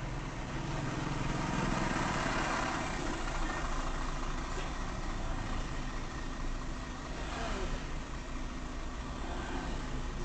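Steady motor vehicle engine and road noise, with no crash or impact heard.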